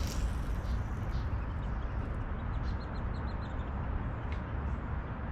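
Outdoor ambience: a steady low rumble of wind on the microphone, with small birds chirping here and there. There is a brief rustle right at the start.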